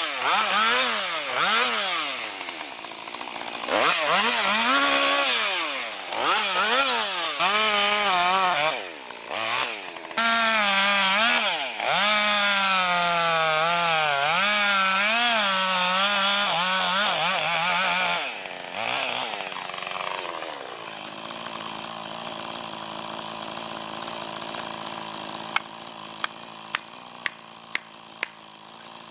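Chainsaw revving hard and bogging down as it cuts, its pitch swinging up and down again and again, then dropping to a lower, steady idle about twenty seconds in. Near the end there are about five sharp cracks in quick succession.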